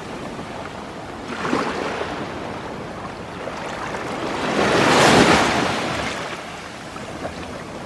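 Small sea waves breaking and washing on the shore, a small surge about a second and a half in and a bigger one swelling and fading around five seconds in.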